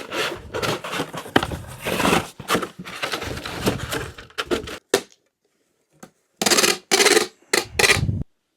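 Die-cast toy cars clattering and clicking against one another as they are packed into a box, a dense rattle for about five seconds, then after a pause three shorter bursts of rattling.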